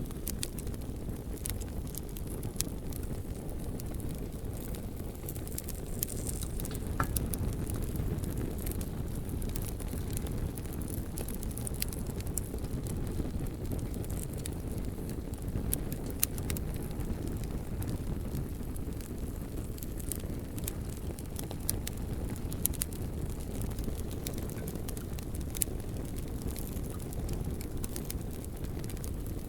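Bonfire of burning logs: a steady low rumble of flames with irregular sharp crackles and pops scattered throughout.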